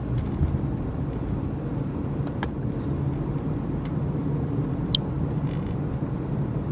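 Car interior noise while driving: a steady low engine and road rumble, with a few light clicks and one sharp tick about five seconds in.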